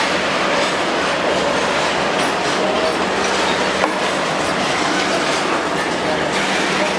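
Long goods (freight) train's wagons running on the track: a steady noise of steel wheels on rails, with a sharp click about four seconds in.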